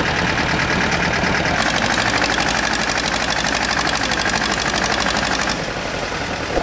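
Tractor engine running with a fast, even firing pulse; it picks up about a second and a half in and eases back near the end.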